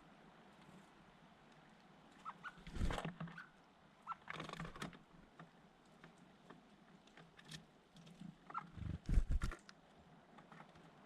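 Small birds close to the microphone: a few short chirps and several bursts of rustling and fluttering with dull thumps, the loudest about nine seconds in.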